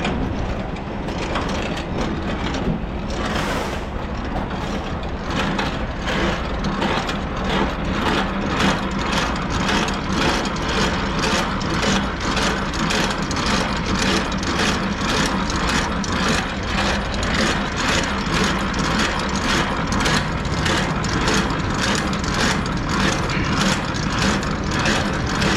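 Semi-truck's diesel engine running at low speed as the tractor backs under a trailer to couple up. From about six seconds in, an even pulsing about twice a second runs over the engine.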